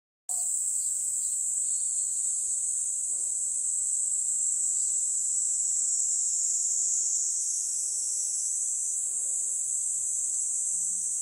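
Steady, high-pitched chorus of summer insects, cutting in suddenly just after the start.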